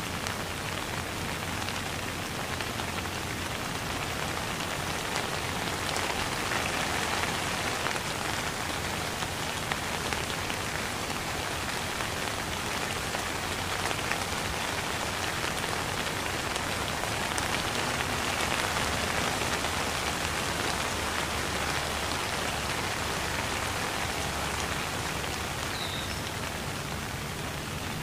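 Steady rain falling, a dense even hiss of many drops that swells a little twice.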